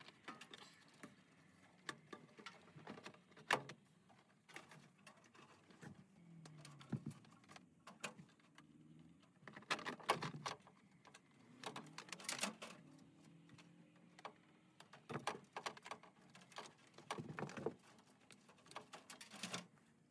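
Scattered clicks, taps and light clatter of hand tools and metal parts as a gas furnace's blower section is taken apart, with louder clusters of knocks every few seconds.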